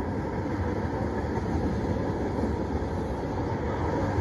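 Freight train tank cars rolling past, a steady low rolling noise of steel wheels on rail.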